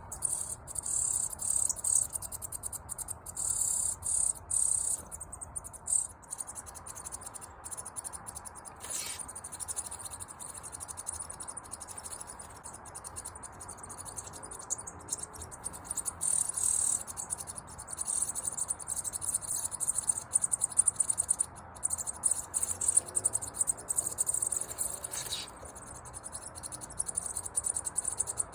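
Crickets chirping in a continuous high, rapidly pulsing trill that swells and fades in loudness.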